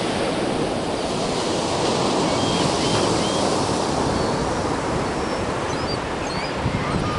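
Ocean surf washing in steadily, with wind on the microphone and a few faint, short gull calls above it.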